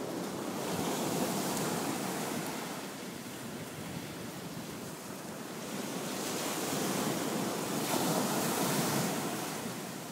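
Ocean surf breaking and washing up the shore, swelling twice as waves come in, with some wind on the microphone.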